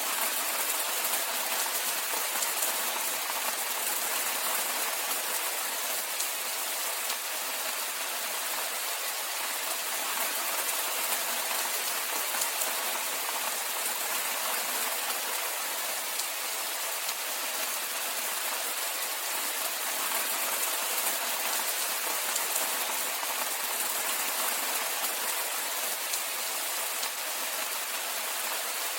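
Steady rainfall: an even, continuous hiss of many drops, without letup.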